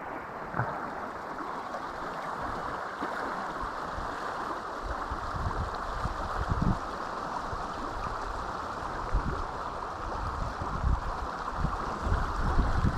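Trout stream water rushing steadily. Low thumps bump the microphone from about halfway through.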